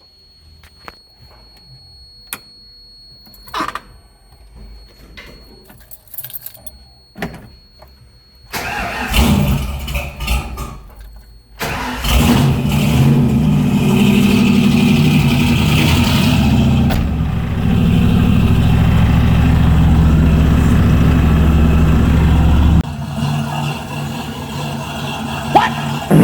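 A few faint clicks and knocks, then about eight seconds in the Ford 302 V8 swapped into a Mazda B2200 mini truck starts and runs loud and steady. Near the end it settles a little quieter.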